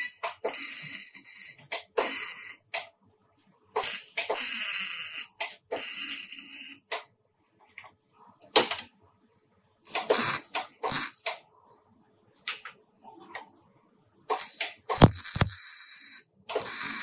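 Short bursts of compressed-air hiss from a body-shop air tool, each lasting about a second and cut off abruptly, mixed with sharp clicks and knocks.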